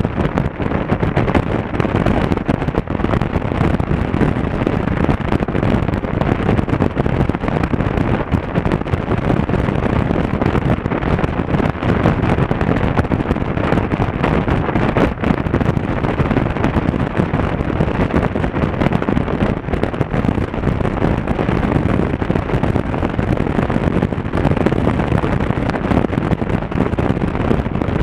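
Honda Africa Twin CRF1000L's parallel-twin engine running on the move, under a steady rush of wind buffeting the action camera's microphone.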